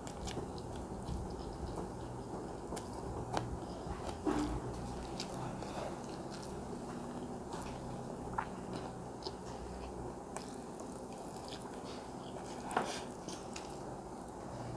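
Close-miked chewing of a mouthful of chicken biryani rice, with scattered wet mouth clicks and small smacks over a steady low background hum.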